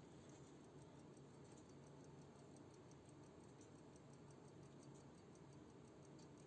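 Faint, rapid, steady ticking of a 1980s Soviet mechanical desk clock running.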